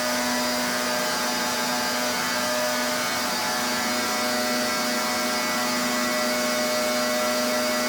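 Pressure washer running steadily: the constant hiss of the high-pressure water jet spraying the surface over a steady hum from the machine.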